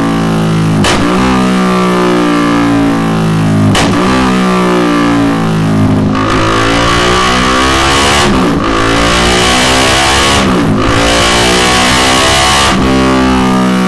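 KTM 390 Duke's single-cylinder engine, fitted with a Delkevic carbon-fibre round end can, revving on a dyno. The pitch climbs and drops back several times, then a longer, harder pull from about halfway, broken by two brief dips.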